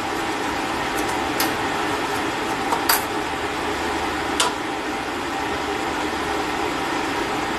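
A steady mechanical whir in the background, with four sharp metallic clicks spread over the first half. The clicks come from a socket wrench working the float-bowl screw on a Holley Dominator carburetor as the bowl is opened to drain.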